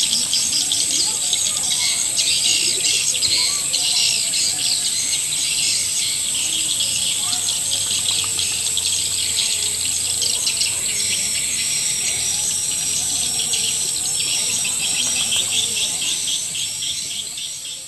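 Swiftlet lure call recording: dense, rapid twittering and chirping of many edible-nest swiftlets, the kind of call played to draw swiftlets into a swiftlet house to nest. A steady high tone sits above the twittering, and the sound fades out near the end.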